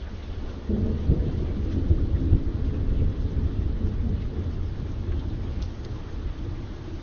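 Steady rain with a roll of thunder that breaks in about a second in, rumbles low and slowly fades away.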